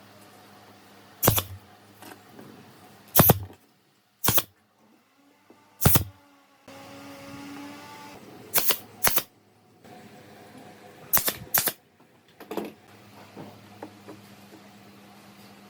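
A series of about nine sharp knocks and taps at uneven intervals, some in close pairs, over a low steady hum.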